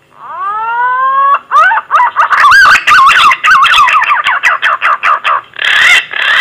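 Green pigeon (punai) call played as a lure: a rising whistle held for over a second, then a fast run of wavering notes, and a short last phrase after a brief pause near the end.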